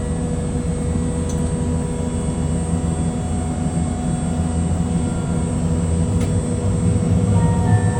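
Hiroden streetcar running, a steady low rumble with a faint constant electric hum.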